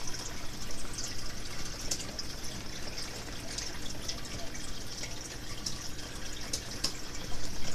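Heavy rain pouring down: a steady wash of noise with scattered sharper drips and splashes.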